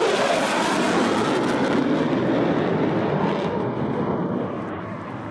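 Aircraft engine noise as a plane passes close by, loud for the first three seconds or so and then fading away.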